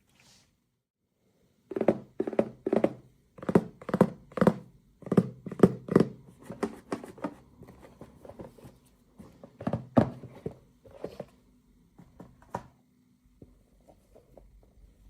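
A run of dull thunks and knocks, roughly two a second, fading to a few fainter taps near the end: toy packaging and plastic pieces being handled on a hard surface while unboxing.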